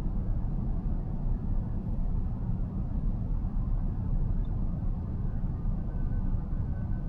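Steady low road and tyre rumble of a car driving along, heard inside its cabin.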